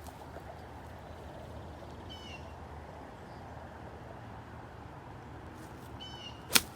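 A single sharp crack near the end as a 9-iron strikes a golf ball, the loudest sound, over steady outdoor background noise. A bird gives a short chirping call about two seconds in and again just before the strike.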